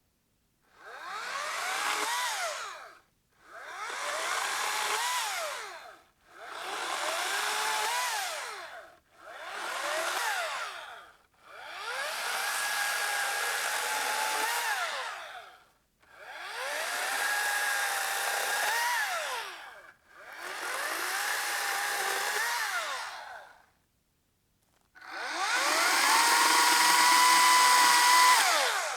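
A small electric motor run in eight short bursts of two to four seconds each. Each burst rises in pitch as the motor spins up and falls as it winds down, and the last burst is the loudest.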